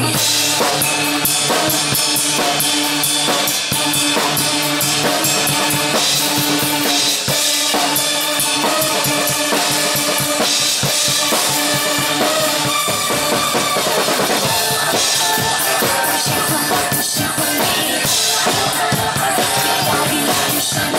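Drum kit played over a pop backing track in an instrumental passage with no singing: fast kick, snare and cymbal hits over held chords.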